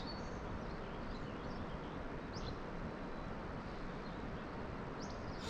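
Outdoor ambience: a steady background hiss with a few short, high bird chirps scattered through it.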